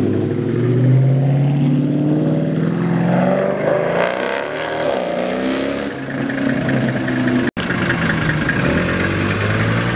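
Car engines accelerating past, the pitch climbing and falling away; after a sudden break about seven and a half seconds in, another engine runs steadily.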